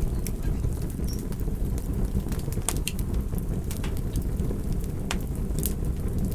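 Campfire burning: a steady low rumble of flame with irregular sharp pops and crackles from the burning wood, several each second.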